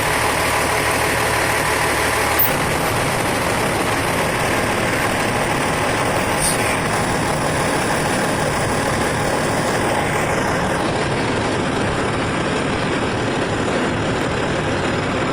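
Large vehicle engine idling steadily, with a single brief click about two and a half seconds in.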